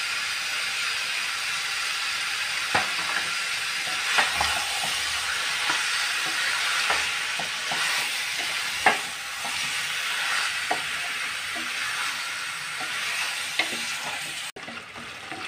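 Chicken pieces frying in a pan with a steady sizzle while a spatula stirs and scrapes them, knocking against the pan now and then. The sound breaks off abruptly near the end.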